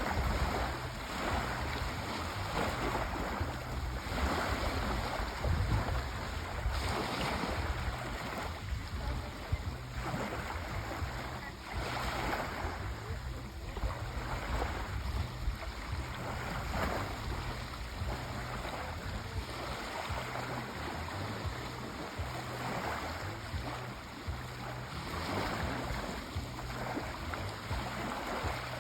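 Sea waves washing onto the shore in repeated surges, each swelling and then falling back, over a steady low rumble of surf.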